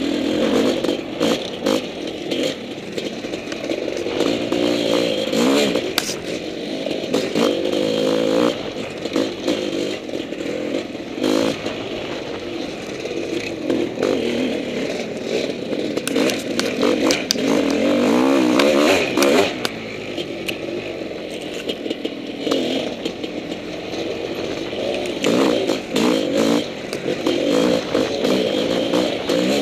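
Honda CR500 two-stroke single-cylinder dirt bike engine revving up and down as the throttle is worked, with frequent clatter and knocks from the bike over rough ground.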